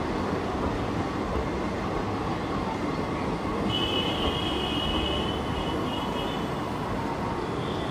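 Passenger train coaches rolling past on the track, a steady running rumble. A high, steady squeal joins for about two seconds midway.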